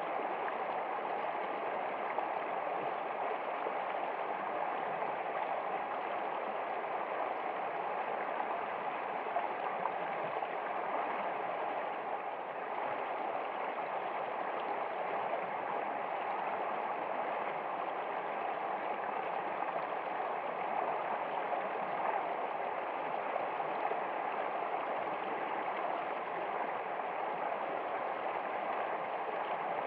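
Steady rushing and gurgling of a flowing stream, even and unbroken.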